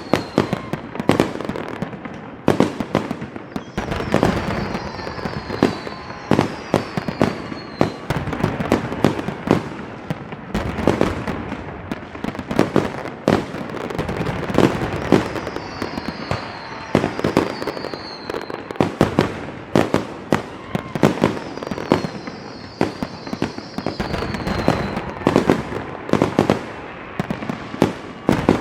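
A fireworks display going off in a rapid, continuous string of bangs and booms. Several short whistles falling in pitch are heard among them.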